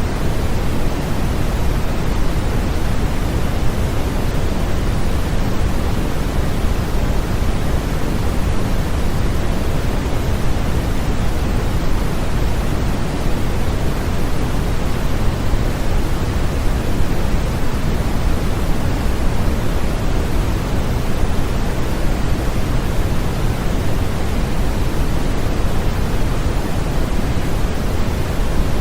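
Steady synthetic white noise used as a baby sleep aid: an even, unbroken hiss weighted toward the low end.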